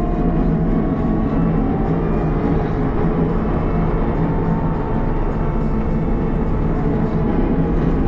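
CAT 906 compact wheel loader's diesel engine running steadily.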